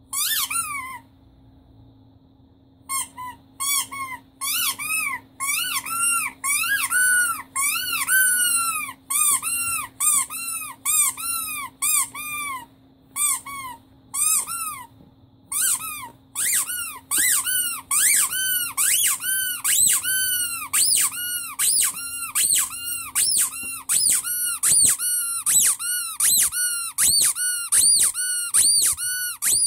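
Rubber squeaky toy squeezed again and again, each squeak rising and then falling in pitch. The squeaks come in short runs with pauses at first, then about two a second from about halfway on.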